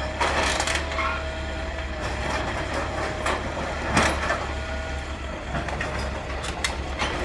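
Demolition machinery running with a steady low rumble, broken by sharp knocks and crashes of debris, the strongest about four seconds in and another pair near the end.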